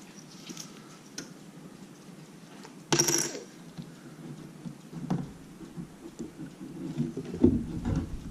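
Small clicks and crackles of plastic guitar picks and a pry tool working under the cracked glass digitizer of an iPad mini as it is lifted away from the adhesive, with a sharper crackling scrape about three seconds in. Low handling bumps come near the end.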